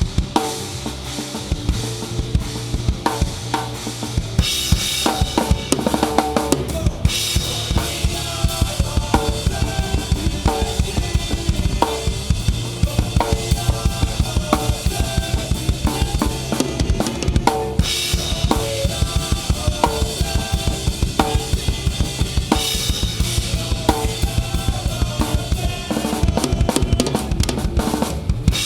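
Rock band playing an instrumental passage live, the close-miked drum kit loudest: rapid steady kick and snare hits with cymbal washes over them, and pitched instruments underneath.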